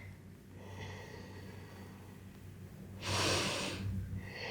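A person breathing out audibly, one short rushing breath about three seconds in, over a faint steady low hum.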